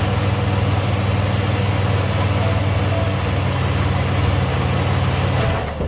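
Car engine idling, a steady low exhaust drone under a broad hiss; the owner suspects a downpipe exhaust leak but cannot tell whether it sounds like one. Near the end the hiss drops away suddenly and the drone steps lower.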